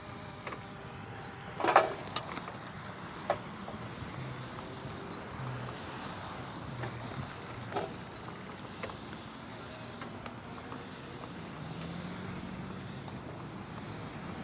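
Steady vehicle noise with a low hum, broken by a few sharp knocks, the loudest about two seconds in.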